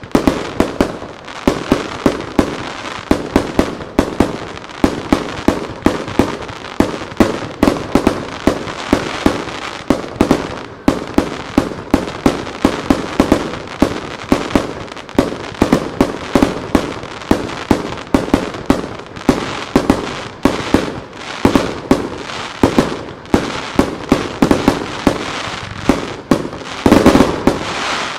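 Starmine fireworks barrage: aerial shells bursting in rapid succession, several bangs a second without a break. The loudest volley comes near the end, and then the barrage drops away.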